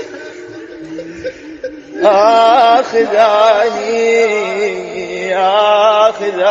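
A man's voice chanting an Arabic devotional lament in a melismatic, ornamented style. It enters loudly about two seconds in with long held, wavering notes, after a quieter stretch.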